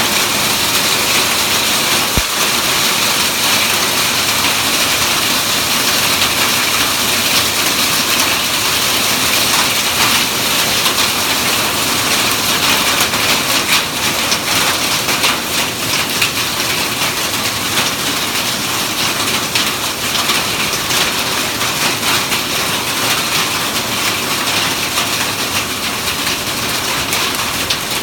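Hail pelting down in a storm: a loud, steady, dense clatter of countless small impacts that does not let up.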